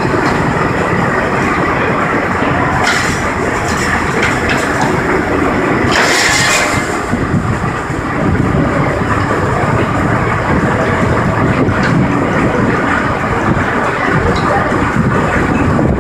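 Sawmill machinery running with a steady loud clatter, with short bursts of higher hiss about three seconds in and again around six seconds.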